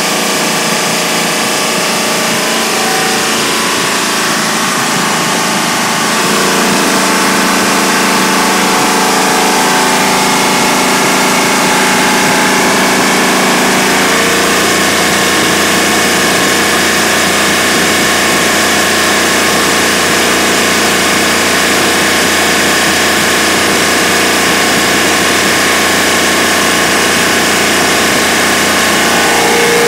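A new carbureted Ford 351 V8 running on an engine dyno during its break-in run. It runs steadily, gets a little louder with a change of note about six seconds in, and changes note again around fourteen seconds in, then holds steady.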